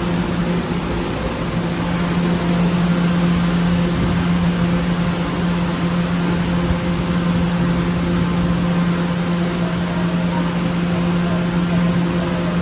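New York City subway train in the station giving off a loud, steady electrical and mechanical hum: one low tone with fainter tones above it, over a constant rushing noise.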